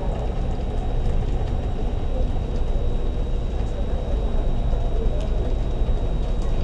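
Steady low rumble and hum with a thin, faint high whine, from an electric commuter train standing at the platform in the rain.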